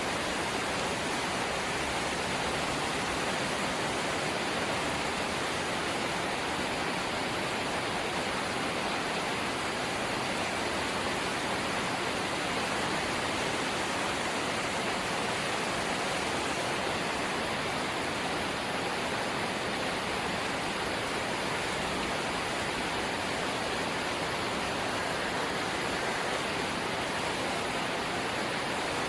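Steady light rain, an even hiss with no separate drops or gusts standing out.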